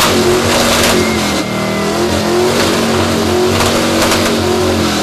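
1974 Ford F-250 pickup engine with open headers, revved and held at high rpm, its pitch starting to drop at the very end.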